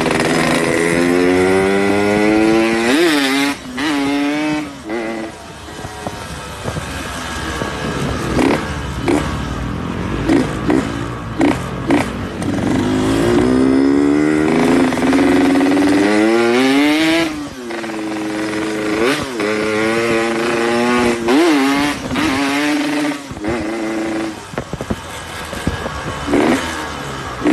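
Yamaha RX-King two-stroke single-cylinder engine riding through the gears, its pitch repeatedly climbing under throttle and dropping at each shift, with short sharp throttle blips. The carburettor is set rich ('setelan basah').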